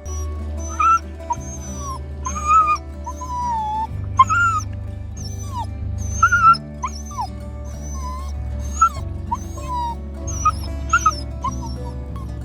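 Shetland sheepdog puppy whining in many short, high-pitched whimpers over background music with a steady bass line.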